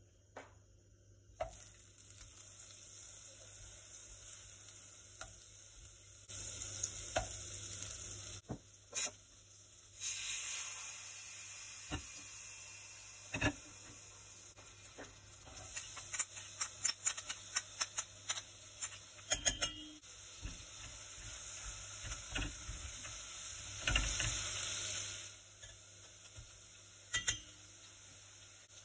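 Butter sizzling in a stainless steel pot, then chopped onion frying in it. Partway through comes a quick run of clicks and scrapes of a utensil against the pot.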